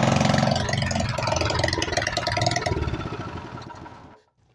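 196cc single-cylinder four-stroke small engine running on choke with no exhaust pipe, a loud, rapid firing that falters and then dies out about four seconds in. It is the owner's engine that runs only on choke, with its carburetor mounted directly to the block without the spacer block that normally sits behind the carb.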